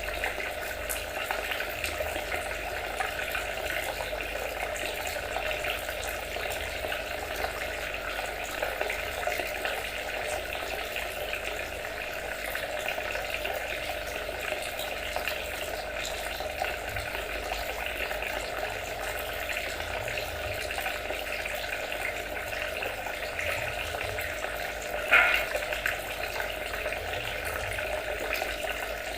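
Steady trickling, splashing water, with a brief louder burst near the end.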